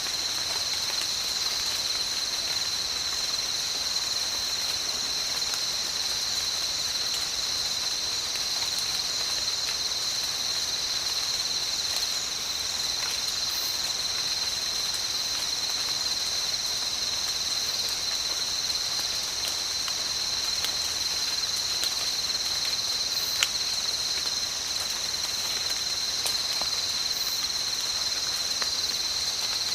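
Rain falling in a tropical forest, with scattered drip ticks and a steady, high-pitched chorus of insects that holds without a break over it.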